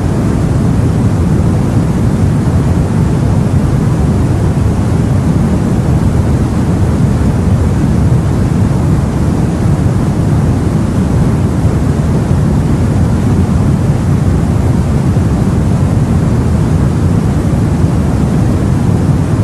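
Steady low rumble of sea and wind, an even wash of noise with no distinct waves or other events standing out.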